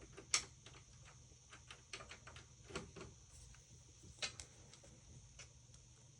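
Faint, irregular light clicks and taps from handling a small phone by hand, two of them sharper than the rest, over a steady faint hiss.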